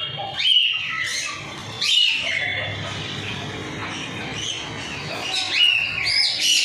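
Pet birds, lovebirds, cockatiels and finches, chattering together, with sharp rising squawks about half a second in, about two seconds in, and twice near the end.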